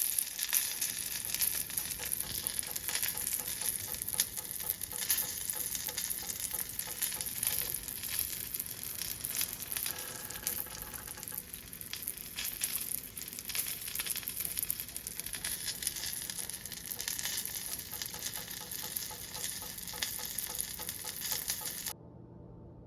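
Food frying in a hot pan: a steady sizzle with dense crackling and popping, cutting off suddenly near the end.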